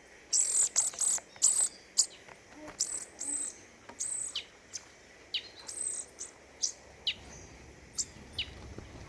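Small songbirds calling: a quick run of sharp, very high chips in the first two seconds, then scattered short notes, several of them sliding quickly downward in pitch.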